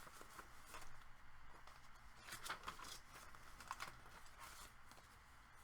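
Faint rustling of paper and card with a few light clicks and taps, as pages and tags of a handmade paper journal are handled and turned.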